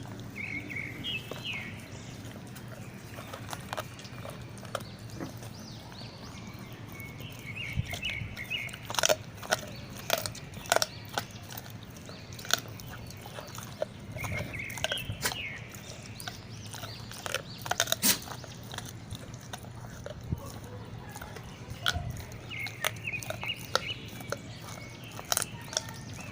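Dogs chewing raw feet, with sharp bone-crunching cracks between the teeth, thickest in the middle of the stretch.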